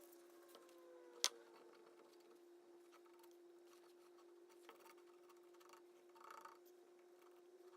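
Near silence: a faint steady hum, with one sharp click about a second in.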